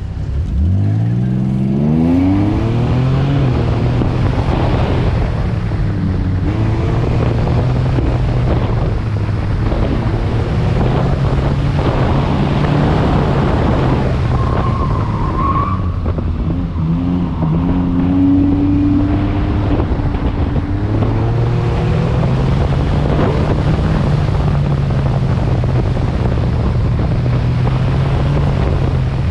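Autocross car with no mufflers launching hard, its engine pitch climbing steeply in the first seconds, then running loud as it rises and falls with throttle and gear changes through the course. A brief high squeal comes about halfway through.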